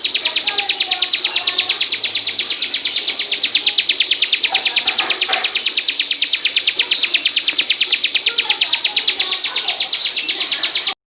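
Recorded bird trill: a fast, even run of high-pitched notes repeated without a break, with faint chirps of other birds behind it, cutting off abruptly near the end.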